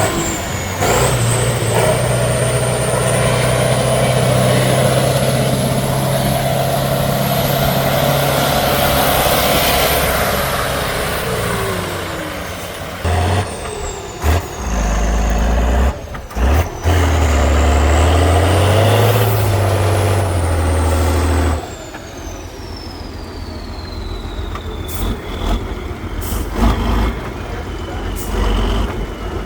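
Heavy off-road trial truck's diesel engine working hard, with a high turbo whistle that rises and then falls. The engine revs climb and fall again midway, then drop to a quieter running level with the whistle winding down and a few knocks.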